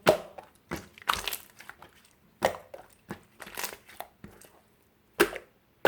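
Blue-and-white marbled slime being squeezed and pressed by hand, giving irregular crinkly, crackly crunches, some single and some in quick clusters.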